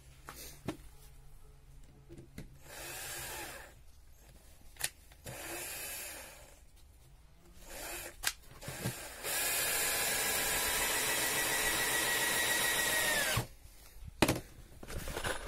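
Electric drill working on pallet-wood hive boards. It runs in two short bursts, then in one long steady run of about four seconds that drops in pitch as it stops, with a few sharp knocks in between.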